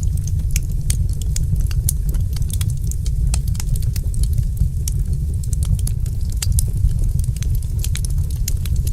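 Wood fire crackling in a fireplace: frequent irregular sharp pops and snaps, several a second, over a steady low rumble.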